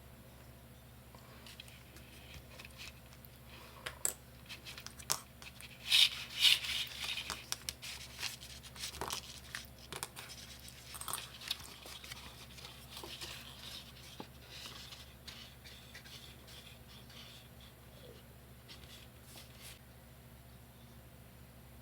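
Sheets of construction paper and card being handled: rustling, crinkling and small clicks and taps in irregular bursts. The loudest stretch comes about a quarter of the way in, and it settles back to faint room tone for the last third.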